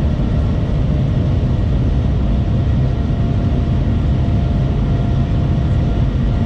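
Shanghai Maglev train heard from inside the passenger cabin at high speed: a steady low rumble and rush, with faint steady whining tones above it.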